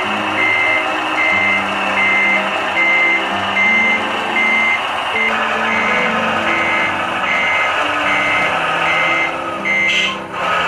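Reversing alarm of a ScaleArt MAN 8x8 RC truck's sound system, a steady train of short high beeps about three-quarters of a second apart, signalling the truck is backing up. Under it runs a constant noisy hum and shifting lower tones.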